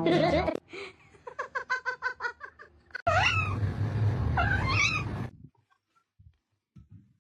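A domestic cat calling: a quick run of short calls, then louder drawn-out meows over rough noise, which stop about five seconds in.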